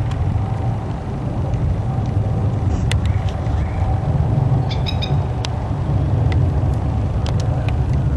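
Steady low background rumble, with a few faint clicks and brief high chirps scattered through it.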